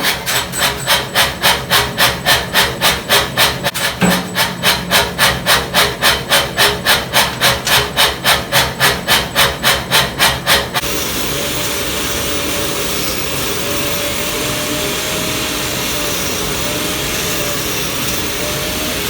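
Steel being worked by hand with even back-and-forth sawing or filing strokes, about three a second. About eleven seconds in this stops abruptly and gives way to a steady machine noise with a faint wavering hum.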